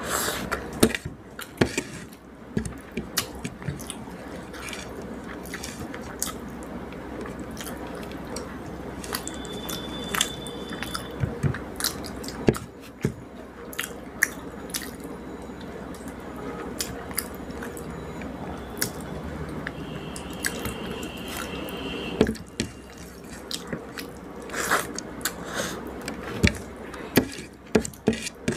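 Close-miked eating sounds: chewing of rice and fish curry with many sharp mouth clicks and smacks, over a steady low hum. A brief high tone sounds twice, about a third of the way in and again past two-thirds.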